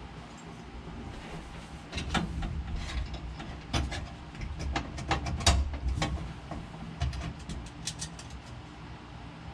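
Hand work on parts and tools: a run of sharp clicks and knocks, busiest in the middle, over a low steady hum.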